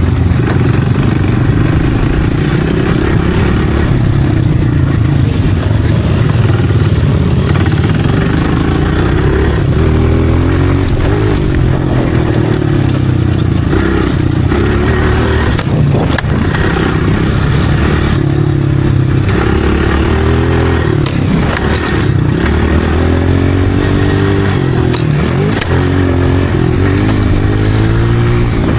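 Motocross dirt bike engine running as it is ridden, its pitch rising and falling again and again as the throttle is opened and closed. A few sharp knocks and clatter break in along the way.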